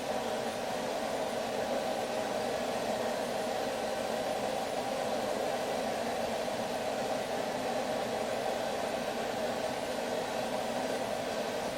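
Steady rushing roar of a blacksmith's forge running, with no hammer blows.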